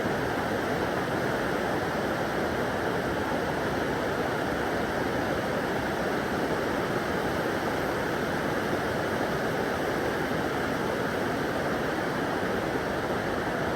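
Steady, even rushing noise with no bird calls or other distinct sounds in it.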